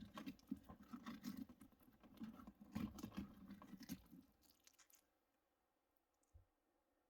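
Hands scooping the stringy pulp and seeds out of a pumpkin, with soft wet squelching and crackling that stops about two-thirds of the way through.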